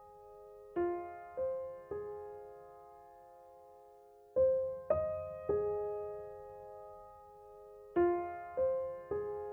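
Background music: soft piano playing slow groups of three notes, each note ringing out and fading before the next group.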